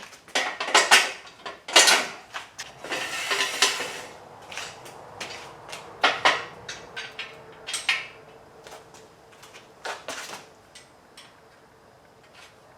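Steel parts of an engine hoist clanking and clinking as the pin is pulled out and the hoist parts are handled, in irregular knocks, with a stretch of metal scraping about three seconds in.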